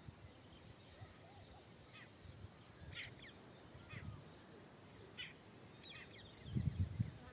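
Wild birds calling with short, high chirps about once a second. A louder low rumble near the end.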